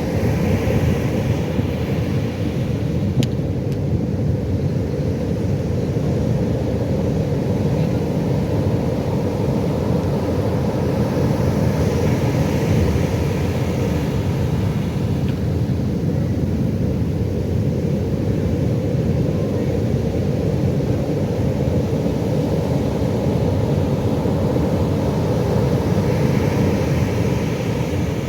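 Pacific Ocean surf: a steady low rumble of breaking waves, with the hiss of a wave washing in swelling near the start, about halfway through and near the end.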